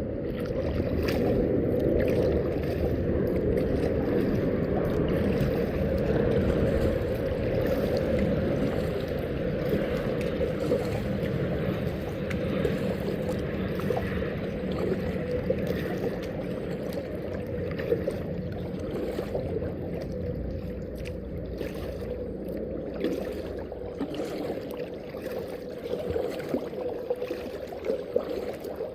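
Steady rush of water around a kayak under way, with a few light knocks.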